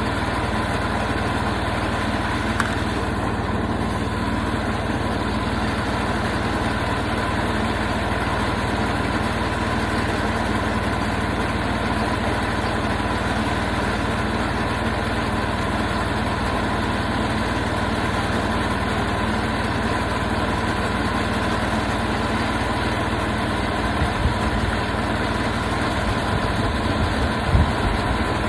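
Portable sawmill engine running at a steady speed, with a few short low thumps near the end.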